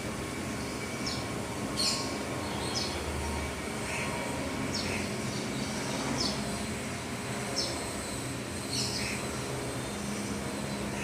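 Small birds chirping: short, high chirps repeated roughly once a second, over a steady background hum.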